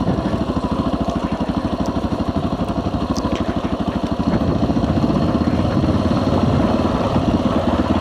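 Dual-sport motorcycle engine running at low revs on a steep downhill, its exhaust pulsing in a fast, even beat; it gets a little louder about halfway through.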